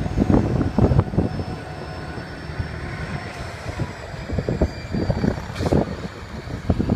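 1/10-scale electric RC stadium trucks racing, their motors giving a thin high whine that drifts slightly down in pitch, over an uneven low rumble and knocking.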